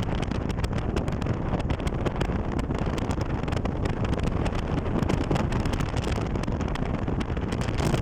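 Wind buffeting the microphone outdoors: a steady low rumble with a scatter of small crackles.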